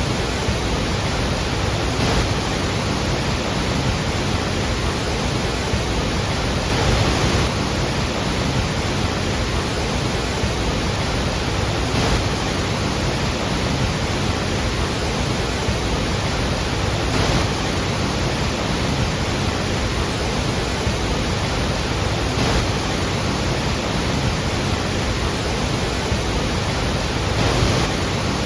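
Iguazú Falls' falling water: a loud, steady, dense rush that swells briefly a couple of times.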